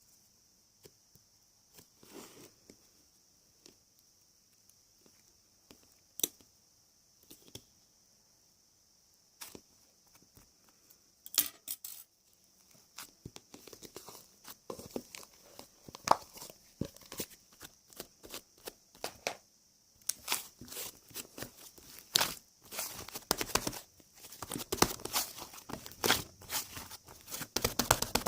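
Close handling noises: scattered sharp clicks at first, then dense crinkling, crackling and tearing over the second half.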